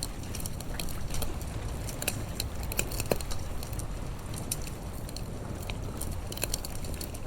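Campfire burning with irregular sharp crackles and pops over a low steady rumble.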